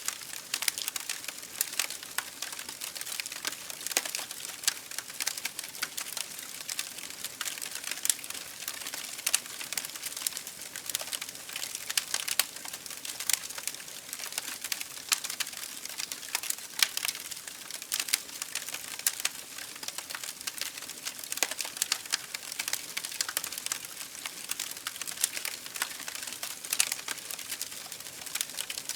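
Campfire burning with constant irregular crackling and snapping pops from the wood, over a soft hiss.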